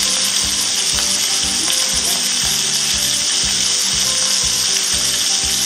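Duck breasts searing in a hot frying pan: a steady sizzle of spitting fat. Music with a steady beat plays underneath.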